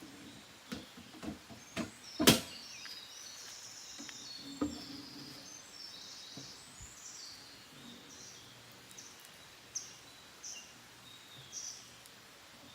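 Wild birds singing high, chirping phrases, ending in a run of short repeated notes. Several sharp clicks come in the first few seconds, the loudest about two seconds in.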